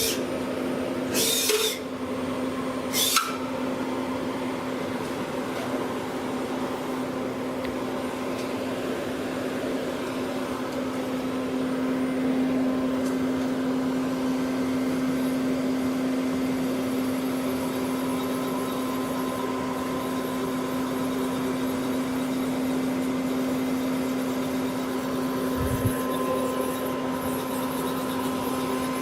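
2011 Citizen M20 CNC Swiss-type lathe running under power with a steady hum. Two short hisses come in the first few seconds, and a single low thud comes near the end.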